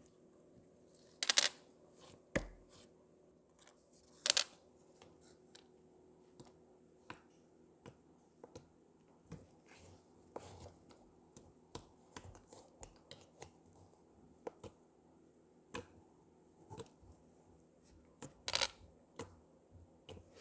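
Slime being pressed and worked by hand, giving scattered small clicks and pops, with louder crackling bursts about a second in, at about four seconds, and near the end.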